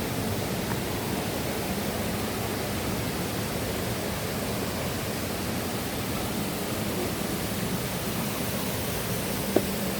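Mountain river water rushing steadily over rocks, an even hiss of flowing water. A single brief click near the end.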